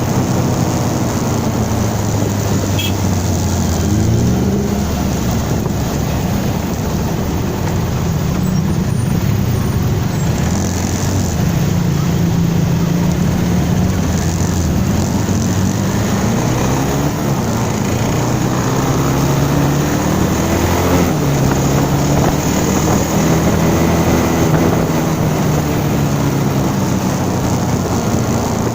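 Car engine running while driving, heard from inside the cabin over steady road noise. Its note rises and falls several times as it accelerates and eases off.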